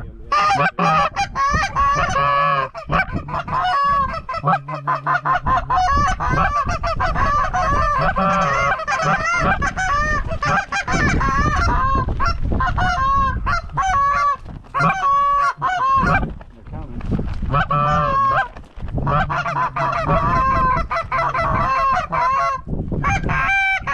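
Goose honking and clucking: rapid, nearly unbroken honks, loud and close, with brief pauses about two-thirds of the way through.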